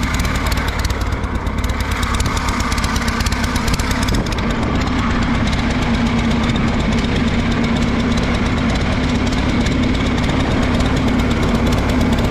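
Allis-Chalmers G tractor's four-cylinder gasoline engine running and jumping, not firing on all four cylinders; the owner believes a spark plug wire is at fault, though it could be the carburetor. A low hum in the running grows stronger about four seconds in.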